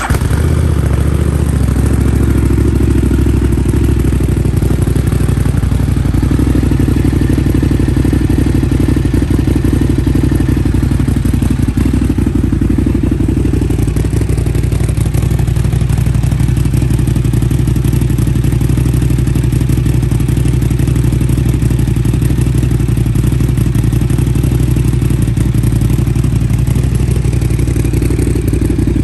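Buell XB9R's air-cooled 984 cc V-twin idling steadily, having just been started.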